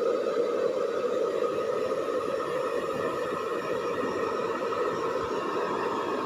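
Hair dryer running steadily, blowing with an even, rushing whir.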